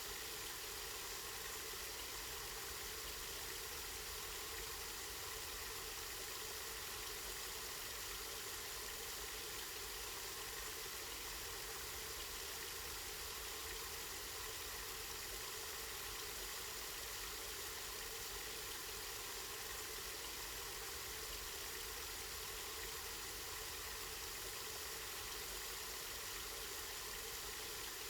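Water running steadily from a spring, a continuous even rush of flowing and splashing water.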